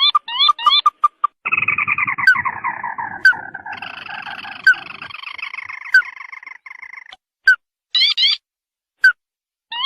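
Recorded crake (burung tikusan) calls played as a hunter's lure. A group of quick rising chirps is followed, about a second and a half in, by a long falling rattling trill lasting several seconds. Near the end come a few single sharp notes and another burst of rising chirps.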